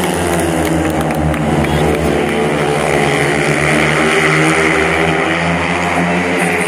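Four speedway motorcycles racing, their 500 cc single-cylinder methanol engines running hard together in one loud, steady drone that shifts slightly in pitch as the riders go round the track.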